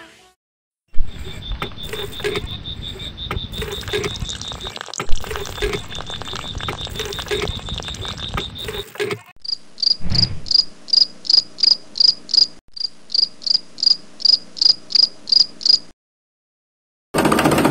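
Water pouring from a miniature hand pump's spout into a small steel pot, under a fast steady insect trill. About nine seconds in the pouring stops, and loud regular insect chirps follow, about two and a half a second.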